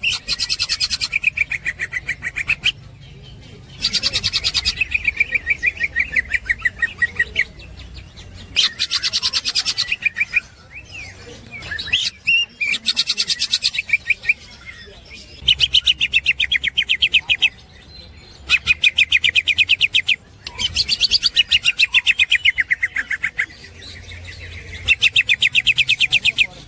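Cucak ijo (green leafbird) singing its fast chattering 'ngekek' song: about eight bouts of rapidly repeated high notes, each a couple of seconds long, broken by short pauses.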